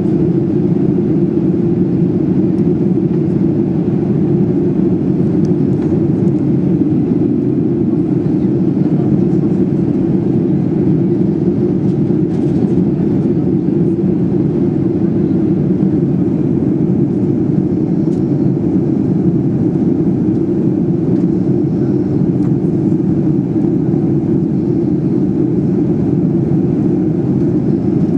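Steady cabin noise of a Boeing 737-800 in flight: the CFM56-7B engines and airflow heard from a window seat as an even, low hum with no change in level.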